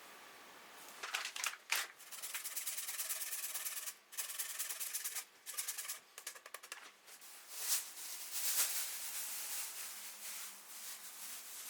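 A kitchen utensil scraping and rubbing in runs of rapid strokes, with a few sharp clicks and brief pauses between runs.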